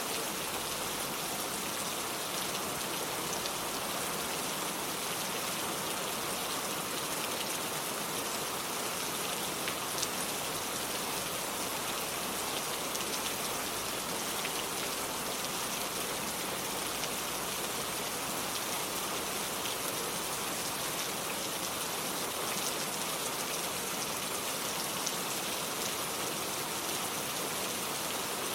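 Steady rain falling, an even hiss with many fine drop ticks, a few drops landing a little louder.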